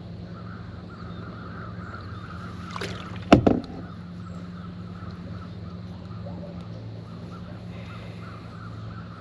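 Crows cawing in the background, with one sharp knock a little over three seconds in.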